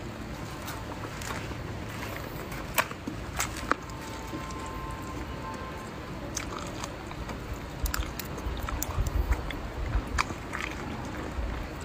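Close-up mouth sounds of someone chewing and biting fried chicken feet: wet chewing with sharp scattered clicks and crunches. A low rumble on the microphone comes in over the last few seconds.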